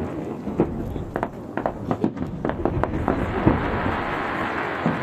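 Aerial firework shells bursting in quick succession: a run of sharp bangs over the first three seconds, then a dense continuous crackle and rumble.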